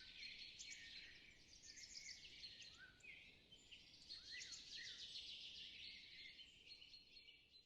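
Faint birdsong: several small birds chirping, with many short, high calls and trills overlapping throughout.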